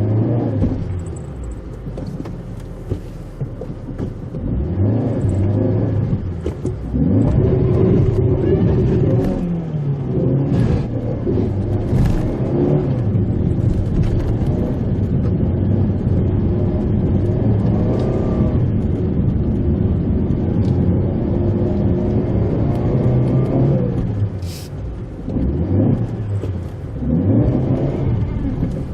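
Mitsubishi Pajero Mini engine running as the car drives, its pitch rising and falling repeatedly as it speeds up and slows, with a few sharp clicks and knocks over it.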